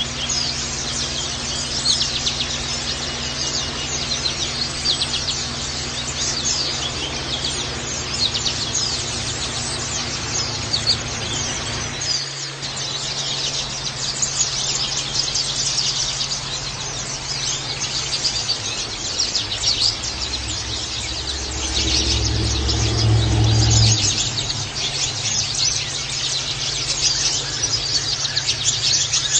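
Pleci (white-eye) birds twittering with dense, rapid high-pitched chirps, over a steady low hum. A low rumble rises for a few seconds about two-thirds of the way through.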